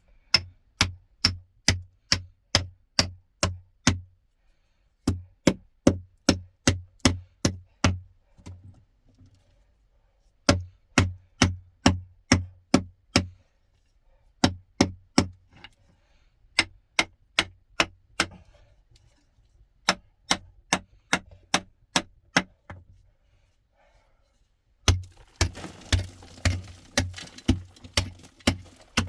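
Repeated sharp knocks, about three a second, in runs of several strokes with short pauses between, like something being struck over and over. Near the end a steady hiss joins the knocks.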